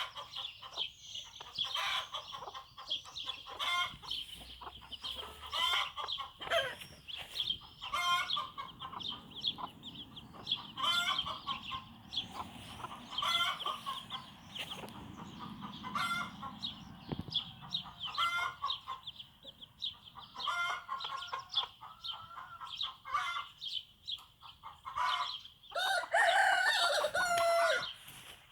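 Bantam hen clucking in short calls every second or two over the constant high-pitched peeping of her young chicks. A louder, drawn-out call of about two seconds stands out near the end.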